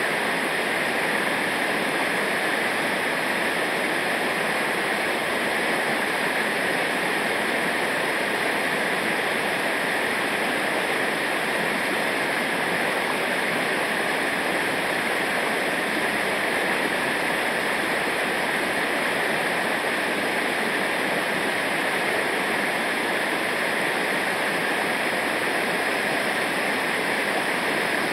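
Rushing river water running steadily and unbroken.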